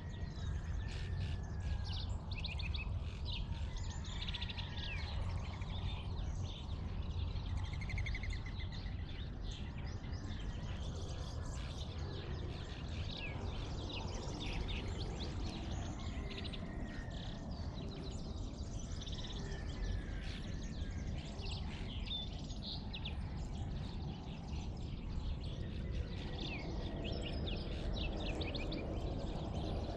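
Dawn chorus of many small birds chirping and calling, overlapping without pause, over a steady low rumble.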